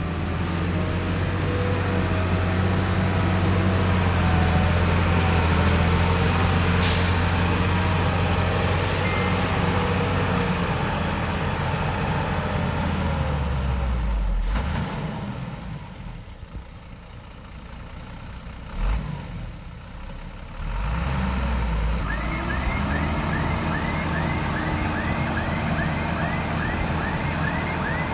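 Heavy-equipment diesel engines running loudly. There is a short air hiss about a quarter of the way in, a quieter stretch with a single thud, and in the last quarter a reversing alarm beeps steadily over the engine.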